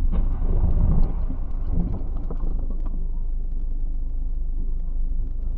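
Steady low rumble of a car in motion, road and engine noise, a little louder for a moment about a second in.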